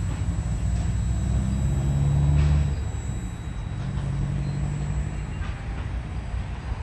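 Freight train rolling slowly past: the low rumble of the diesel locomotive's engine with the running noise of empty ballast hopper wagons. The engine note shifts and eases off about two and a half seconds in.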